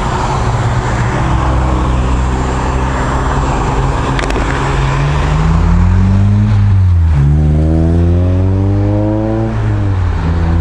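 Honda CBR650F's inline-four, fitted with an Akrapovic full titanium exhaust, running steadily and then accelerating. Its pitch climbs and drops suddenly at an upshift about two-thirds of the way in, then climbs again to a second shift near the end. Wind rush is heard in the first half.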